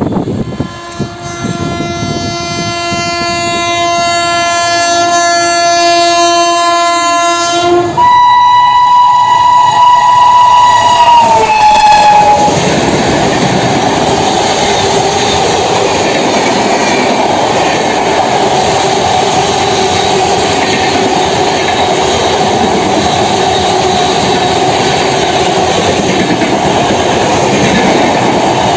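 Indian Railways train's locomotive horn sounding a long, low blast, then a shorter, higher blast that drops in pitch as it ends. After that comes the steady rumble and clatter of the train running past.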